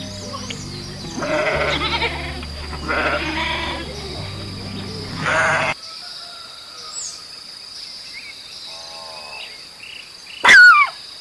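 A bleating farm animal gives three bleats over background music, which cuts off about halfway through. Near the end a dog gives one loud, high yelp.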